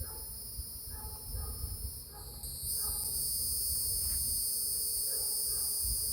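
Steady, high-pitched insect chorus, like crickets or cicadas, that grows louder about three seconds in, over a low rumble.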